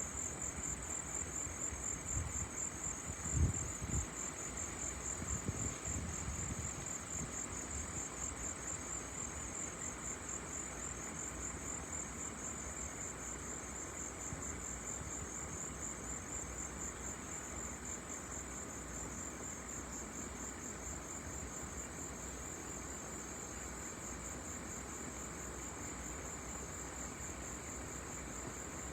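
Crickets trilling steadily in a high, pulsing chorus over the low, even rumble of a Boeing 737-800 jet's CFM56 turbofans passing overhead. A few brief low thumps come about three to six seconds in.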